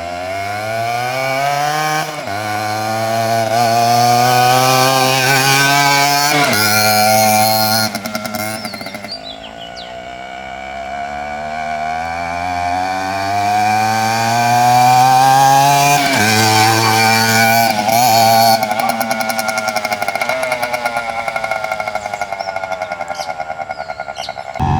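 Suzuki RG50 Gamma's two-stroke single-cylinder engine accelerating through the gears. The revs climb and drop back sharply at each of several gear changes, ease off and build again, then wind down near the end.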